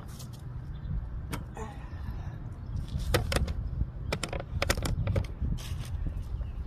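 Socket ratchet tightening a fitting on a Mercedes-Benz Sprinter during an oil change: sharp metal clicks in short irregular groups as the handle is worked, over a steady low rumble.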